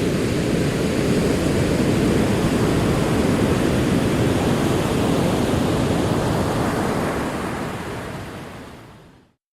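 Ocean surf: a steady, deep rush of rolling waves, fading out over the last two seconds into silence.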